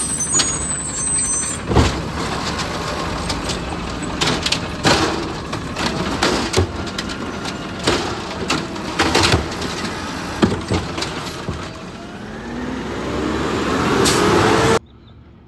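Garbage truck working, with its engine running under a string of sharp metallic knocks and clanks. Over the last few seconds the engine note rises, then the sound cuts off suddenly about a second before the end.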